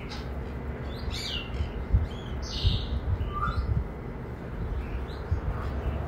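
Short bird chirps and calls, a handful of separate notes scattered through the middle, over a steady low rumble with a few low thumps.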